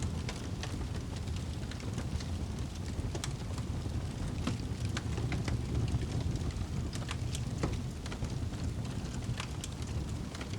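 Wood fire burning in a fireplace: a steady low rumble with sharp, irregular crackles and pops, several each second.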